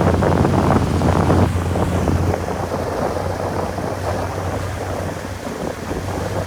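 Motorboat under way: wind buffeting the microphone and water rushing past the hull, with a low steady hum that eases after about two seconds.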